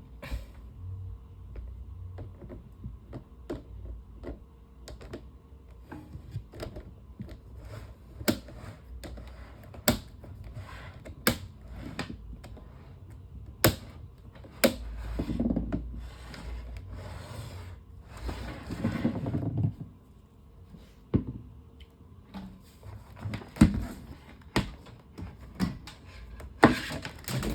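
Irregular clicks, knocks and clatter from a desk fan's grill being handled and fitted back on over the blade, with two longer scraping rubs near the middle.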